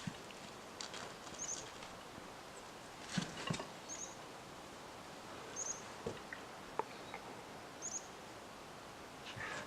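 A small bird repeating a short, high double chirp every two seconds or so, over a faint outdoor hiss. A few scattered knocks and rustles are mixed in, the loudest a pair about three seconds in.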